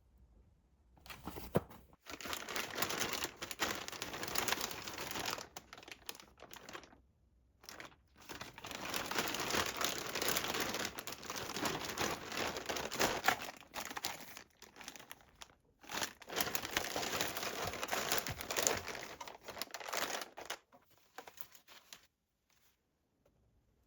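Crinkling and crumpling of some crinkly material being handled, in three long stretches with short pauses between, stopping about twenty seconds in.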